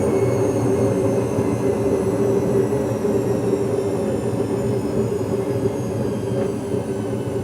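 Washing machine in a long spin cycle: a steady motor whine and drum hum, its pitch sinking slightly and the level easing a little.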